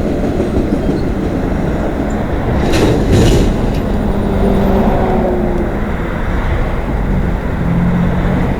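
CN freight train rolling past, a steady rumble of wheels and railcars on the track, with a brief sharper clatter about three seconds in.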